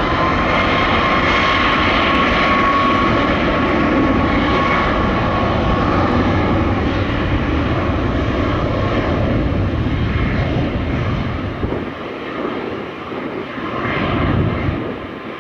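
Airliner engines running at high power, a loud rush of engine noise with a steady high whine that rises in pitch just as it begins. The noise eases about twelve seconds in, then swells briefly again near the end.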